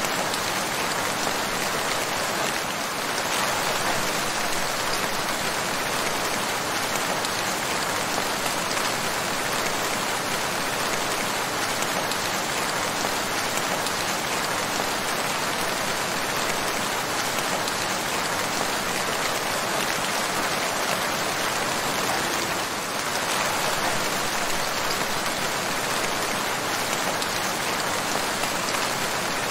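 Steady rain falling, a dense, even hiss of drops without breaks.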